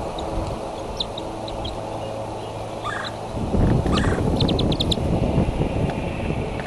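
High, short bird chirps scattered through, with a quick run of about six in a row near the middle, over a steady low rumbling noise that grows louder about three and a half seconds in.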